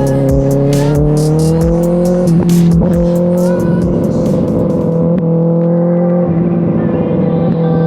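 Sport motorcycle engine running at a steady cruise. Its pitch rises slightly about a second in and dips briefly a few times.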